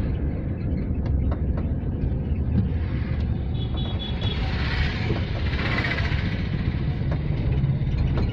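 Car on the move: a steady low engine and road rumble, with a rushing hiss that swells and fades about halfway through.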